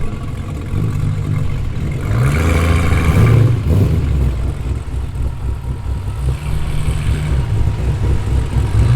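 Car engine with a deep, steady low rumble as a car drives slowly past, revving up briefly a couple of seconds in.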